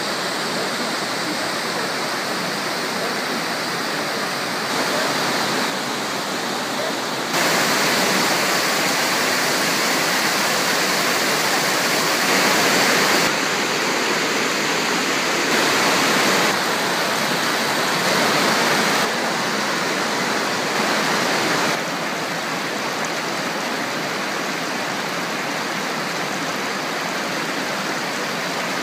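Running water rushing steadily. Between about 5 and 22 seconds in, it grows louder and brighter, then softer again, several times, each change abrupt.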